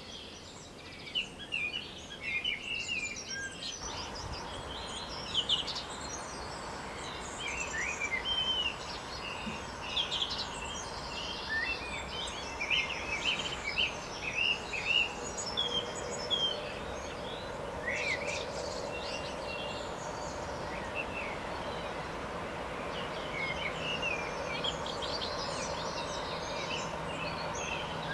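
Wild songbirds chirping and calling in many short, high notes, busiest in the first half and again near the end, over a steady outdoor hiss that grows louder about four seconds in. A faint steady hum joins in the second half.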